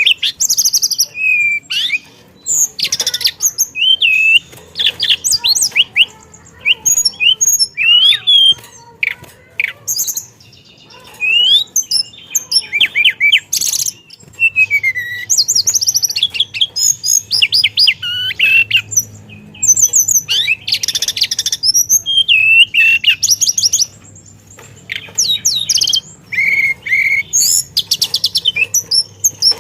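A teledekan songbird singing a long, rapid, varied song of whistles, trills and sharp notes with only brief pauses. Its phrases mix in imitated calls from other birds.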